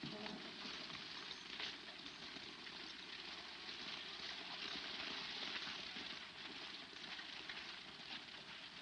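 Steady hiss and faint crackle of an old optical film soundtrack, with scattered soft clicks.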